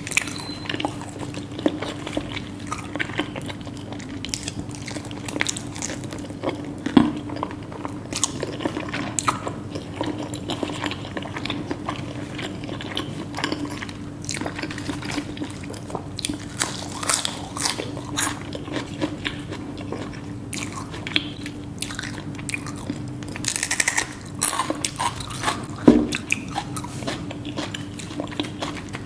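Close-miked eating sounds: repeated biting and chewing with crisp crunches and wet clicks, over a steady low hum.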